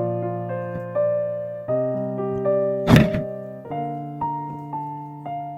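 Gentle piano background music, a new chord or note about every half second to second, fading slowly. A single thud cuts in about three seconds in, louder than the music.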